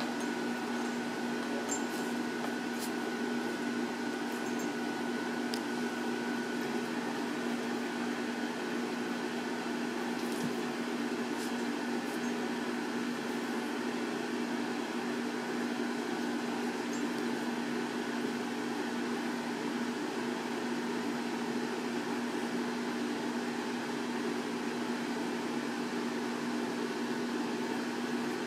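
A steady, unchanging mechanical hum with a constant low tone over an even hiss, with a few faint ticks in the first dozen seconds.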